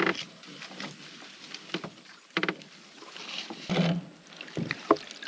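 Creek water sloshing and splashing as a hand-made fish trap is pushed down into it, with a few sharp knocks along the way.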